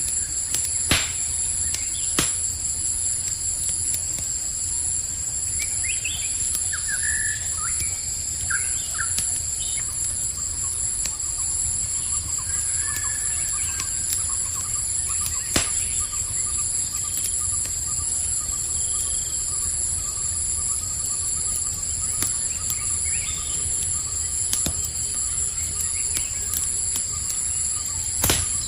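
Campfire crackling, with a low rumble and a few sharp pops, under the steady high chirring of crickets. Several short bird chirps come in the first half.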